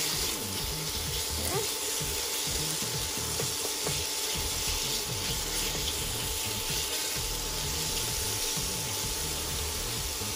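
Chicken breast strips and sliced mushrooms sizzling in a hot nonstick pan, with tongs scraping and clicking against the pan as they are turned.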